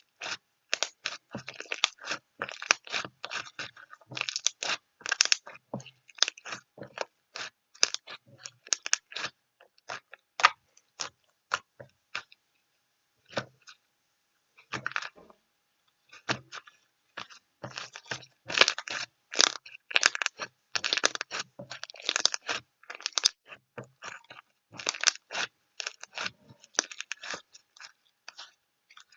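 A long run of short, crisp crunches in dense bursts, sparser with gaps around the middle.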